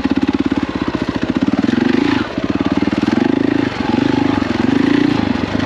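KTM 450 EXC dirt bike's single-cylinder four-stroke engine running under throttle on tight single track, its exhaust pulsing steadily. The throttle is briefly rolled off twice, about two seconds in and again near four seconds.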